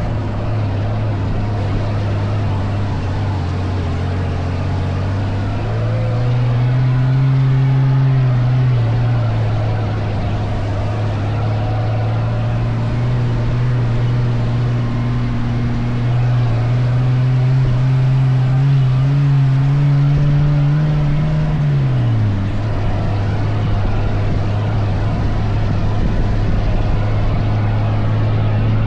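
Dune buggy engine running hard, its pitch rising about six seconds in, holding steady, then dropping back near twenty-two seconds in.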